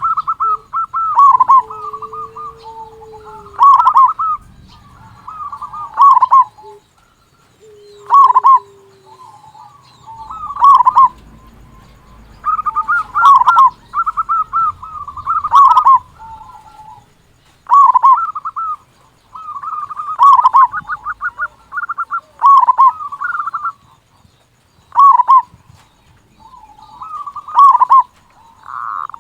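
Zebra dove (perkutut) cooing: loud, rolling phrases of several coos, repeated about every two seconds.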